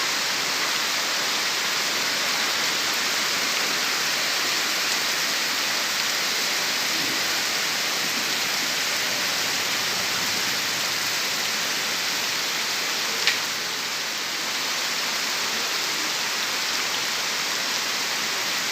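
Heavy rain falling steadily, an even hiss, with a single sharp tick about thirteen seconds in.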